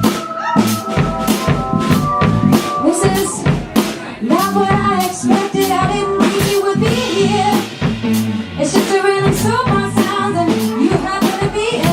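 Live band music: a woman singing over a drum kit keeping a steady beat, with other band instruments.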